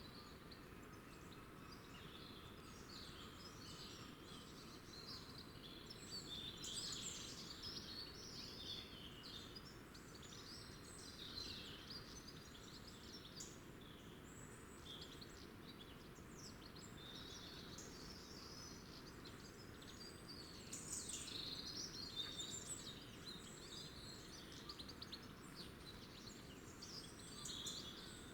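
Small songbirds chirping and twittering, many short overlapping calls, faint over a steady low background hiss, busier about a quarter of the way in and again about three quarters in.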